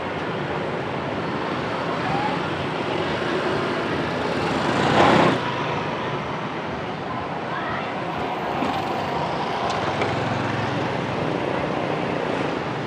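Street traffic noise, with motorcycles and cars going by; one vehicle passes close about five seconds in.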